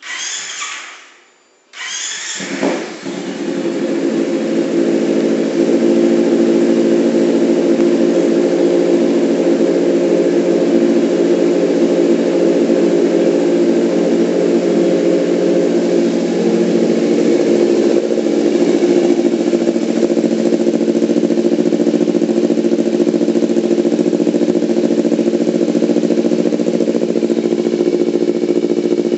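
Kawasaki Ninja 250 FI parallel-twin engine breathing through an open racing exhaust: a short first burst that dies away, then the engine catches about two seconds in and settles into a loud, steady run.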